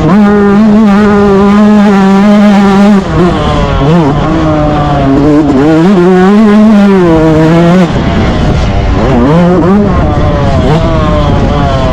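Yamaha YZ125 single-cylinder two-stroke motocross engine running hard, its note held high and steady for about three seconds, then falling and climbing again several times as the throttle is rolled off and opened up.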